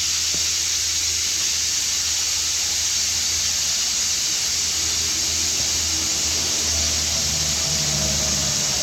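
Steady hiss of compressed air driving an air-powered vacuum/pressure fluid transfer unit as it pushes oil into a rebuilt engine through the oil filter port to prime it before first start, with a steady low hum underneath.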